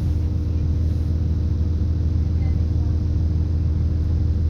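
Steady in-carriage running noise of a British Rail Class 170 Turbostar diesel multiple unit: a constant low drone from its underfloor MTU turbo-diesel engine and running gear, with a couple of steady low hums over it.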